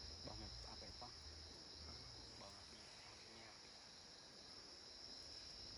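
Steady, faint, high-pitched chorus of crickets. A few faint, brief voice-like sounds rise over it now and then.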